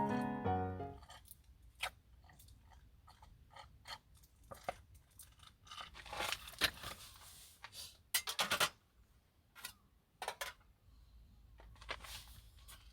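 Piano music fading out, then scattered handling noises: short clicks, crunches and crinkly rustles, with a longer rustling stretch about six seconds in and a quick run of sharp clicks about two seconds later.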